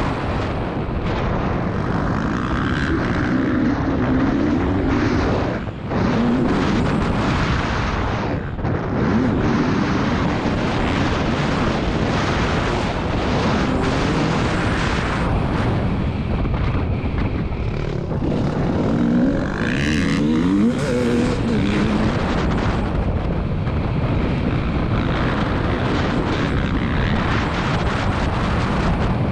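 2022 KTM 300 TPI two-stroke motocross engine being ridden hard, its pitch rising and falling with the throttle, with a dense rushing noise over it. The engine note dips briefly off-throttle about six and eight and a half seconds in, and climbs in a quick rev about two-thirds of the way through.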